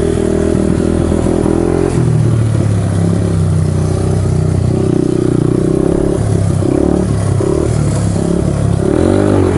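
1995 Honda XR200R single-cylinder four-stroke dirt bike engine running under throttle, its revs rising and falling several times. The throttle response is sluggish, which the rider puts down to a lean bog in the old carburetor.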